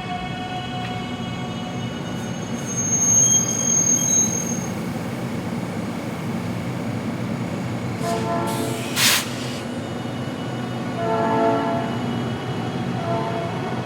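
NICTD South Shore Line electric commuter train running in the street with a steady low rumble, a brief high wheel squeal about three seconds in, and its horn sounding in several blasts over the second half. A short hiss comes about nine seconds in.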